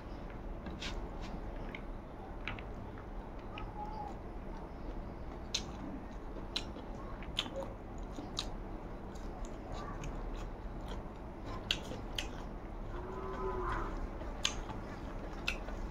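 A person chewing food close to the microphone: rice and fresh herb leaves eaten by hand, with scattered sharp wet mouth clicks and small crunches. A short hummed voice sound comes near the end.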